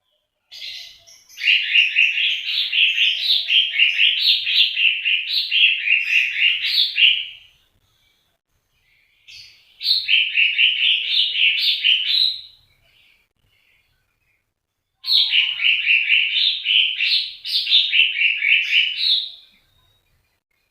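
A songbird singing three long phrases of rapid, repeated chirping notes, each phrase a few seconds long, with complete silence between them, typical of a masteran tutor recording for cage birds.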